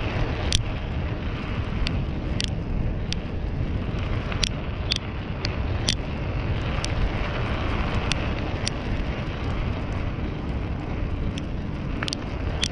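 Steady wind and road rumble from a bicycle ridden along a road, with irregular sharp clicks scattered throughout.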